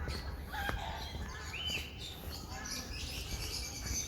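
Birds chirping, with a few short calls that rise and fall in pitch.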